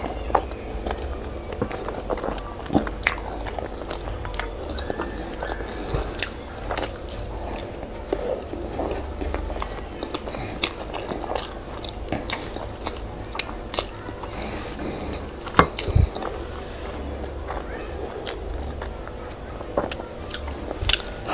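Close-miked eating sounds of a person chewing boiled yam with owo stew: irregular mouth clicks, smacks and bites.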